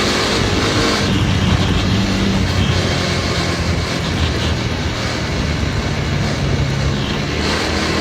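Dirt bike engine running, its pitch stepping to a new level about a second in and again near the end.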